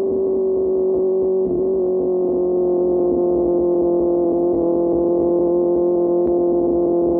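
QJ Motor SRK600 inline-four engine with an SC-Project exhaust, running steadily at high revs while riding, with a brief dip in the note about one and a half seconds in.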